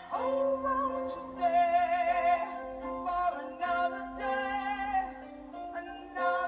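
Music: a woman singing long held, wavering notes over a sustained instrumental accompaniment.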